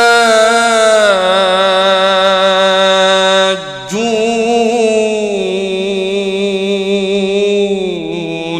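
Quran recitation in melodic tajweed style: a single reciter's voice holds long, ornamented notes with wavering pitch, pausing briefly for breath about three and a half seconds in before drawing out another long phrase.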